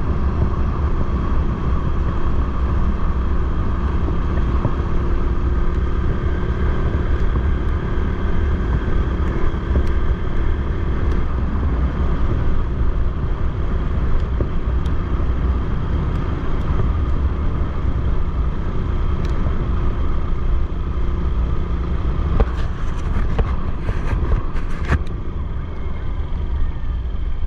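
Motorcycle engine running steadily on the move, over a heavy low rumble of wind and road noise, with a few light clicks near the end.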